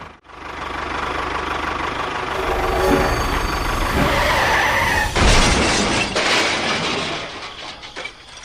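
Small engine running steadily, with a sudden loud clatter about five seconds in, fading away near the end.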